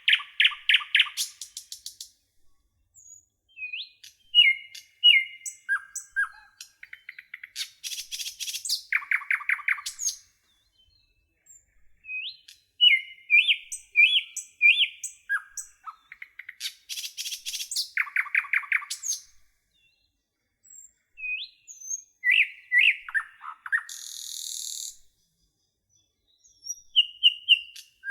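Songbirds singing in short phrases: fast rattling trills and quick whistled chirps, separated by brief silent pauses, with one short buzzy note near the end.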